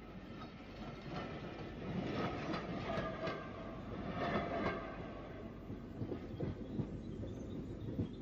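Steam-hauled passenger train running along the track, wheels and carriages clattering over the rails in a steady rumble.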